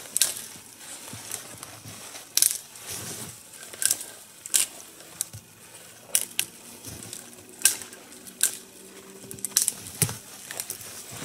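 Dry dead spruce branches being snapped off by hand for kindling: a series of sharp cracks, one every second or two.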